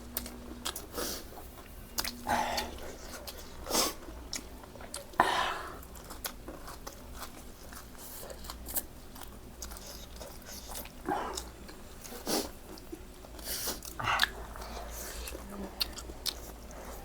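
Close-up eating: irregular crunchy bites and chewing of food, with sharp crackles scattered throughout.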